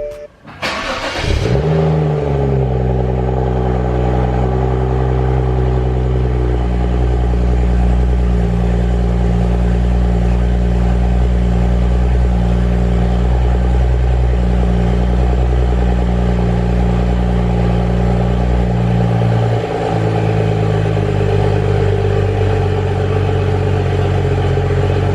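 BMW turbocharged straight-six engine cranked and started, flaring briefly as it catches, then idling steadily; the idle changes about twenty seconds in.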